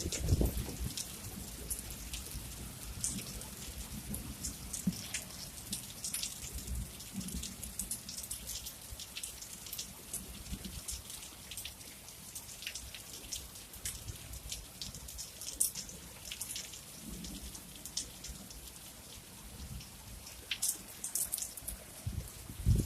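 Rain falling, with many small irregular drop ticks over a faint steady hiss.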